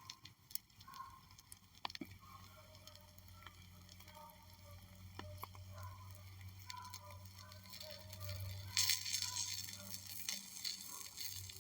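Wood fire crackling faintly, with scattered sharp pops and a denser run of crackle a little past the middle.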